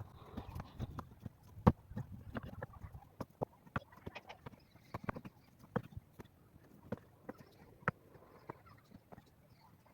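Irregular sharp knocks and clicks, several a second, the loudest about two seconds in, over a low rumble that dies away about three seconds in.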